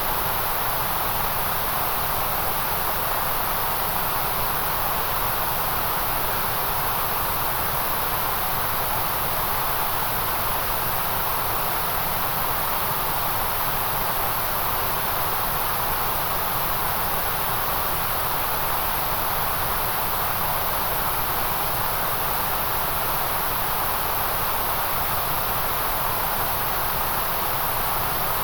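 Steady synthetic white noise: an even, unchanging hiss.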